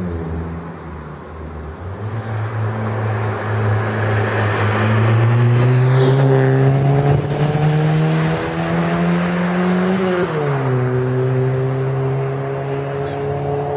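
Nissan Primera P10 1.6-litre four-cylinder engine and exhaust pulling under acceleration, its pitch rising steadily for about eight seconds, then dropping sharply about ten seconds in and holding nearly steady.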